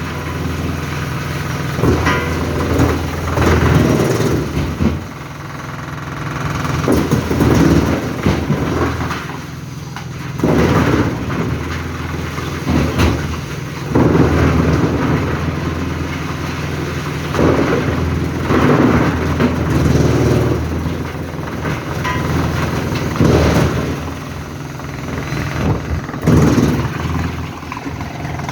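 Forestry wood chipper running while logs are fed through it: a steady engine drone underneath, with loud, noisy surges every two to three seconds as the wood is chipped.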